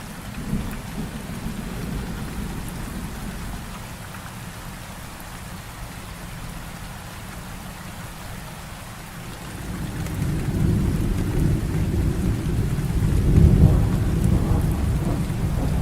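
Heavy rain falling steadily with rolling thunder. The low rumble dies down in the first few seconds, then builds again about two-thirds of the way through and peaks near the end.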